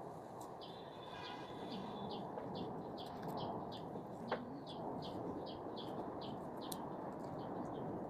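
A small bird chirping over and over, short high chirps two or three a second, after a longer held call about a second in. A single sharp click a little past four seconds in.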